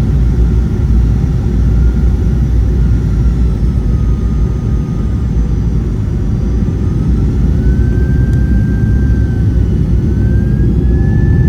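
Loud, steady low rumble of an airliner cabin on the ground after landing, with a faint engine whine sliding slowly up and down in pitch.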